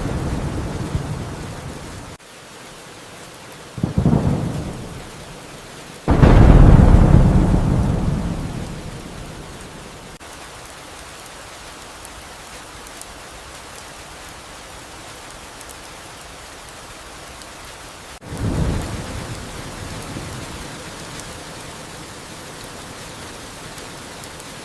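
Steady rain with several claps of thunder: a rumble dying away in the first two seconds, a short crack about four seconds in, the loudest clap about six seconds in rolling off over a few seconds, and another clap about eighteen seconds in.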